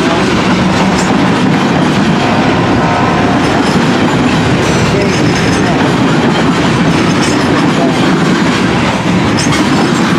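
Freight cars (covered hoppers and tank cars) rolling slowly past at close range: a steady, loud rumble of steel wheels on rail with occasional clacks of wheels over rail joints.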